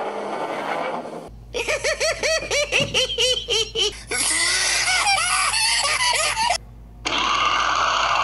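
Dubbed-in cartoon creature sounds: a rapid string of squeaky, chirping pulses, like a baby monster giggling, starting about a second and a half in, followed by a hissy stretch with more chirps.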